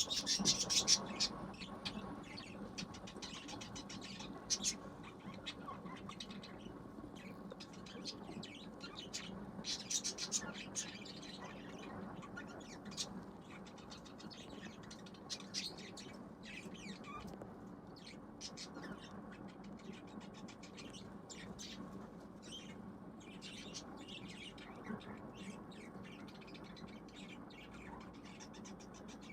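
Budgies chirping in many short, high calls, busiest at the start, around ten seconds in and near the end, over a steady low hum.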